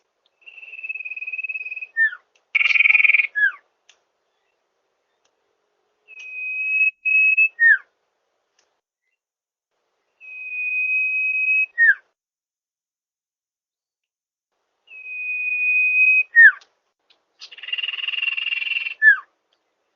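Common iora (cipoh) song: a long, level whistle held for about a second and a half, then a short falling note, repeated four times about every four to five seconds. Twice, once about three seconds in and once near the end, it gives a harsher buzzy note.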